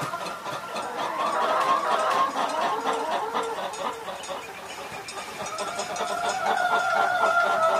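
Domestic hen calling: drawn-out, wavering clucking calls that fade in the middle and pick up again over the last couple of seconds.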